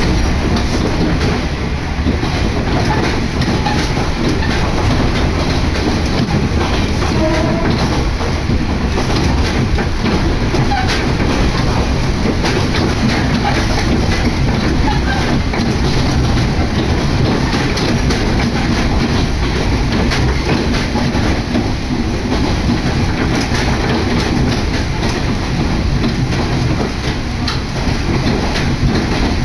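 A diesel railcar running along the track, heard from inside the carriage: steady noise of the train and its wheels on the rails, with air rushing in at an open window.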